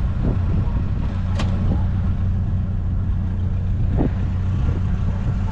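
Vehicle engine idling, a steady low hum, with a couple of faint light clicks over it.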